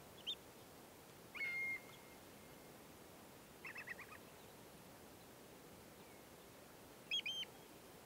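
Bird calls at intervals over a faint steady hiss: one short note, a longer call about a second and a half in, a quick run of notes near four seconds, and three notes near the end.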